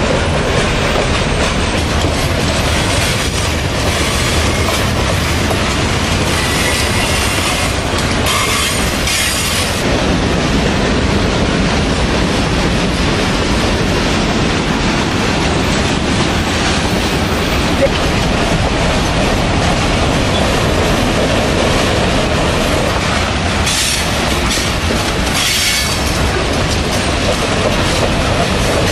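A train rolling past with steady wheel rumble and clatter on the rails, and a few short high-pitched wheel squeals.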